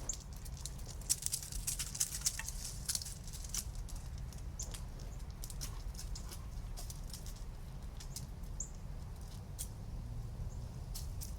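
Scattered sharp clicks and scuffs, denser in the first half, over a low steady rumble: a dog moving about and mouthing a toy.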